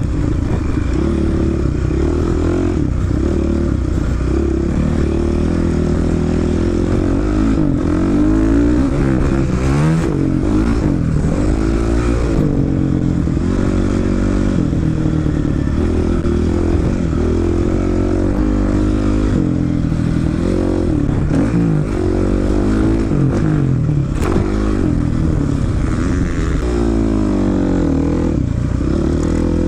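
Honda CRF450 single-cylinder four-stroke dirt bike being ridden, its engine revving up and falling back again and again, rising and dropping in pitch every couple of seconds.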